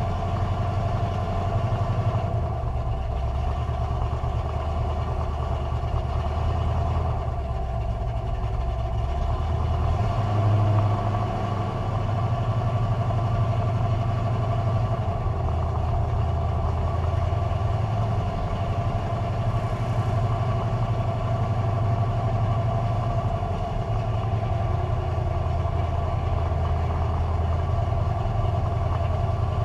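Carbureted drag-race car engine running steadily at low revs, near idle, with no revving; the low rumble shifts slightly in level a few times.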